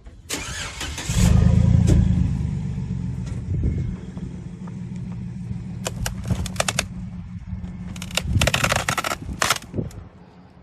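A vehicle engine revving hard about a second in and then running under load as it strains to drag a heavy leaf load off a trailer, with a few short bursts of clatter later on.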